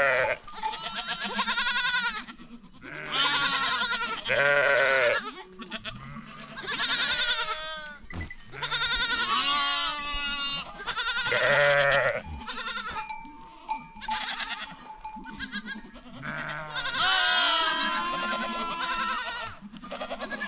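A herd of goats bleating over and over, several animals calling at once at different pitches, with a loud call every second or two.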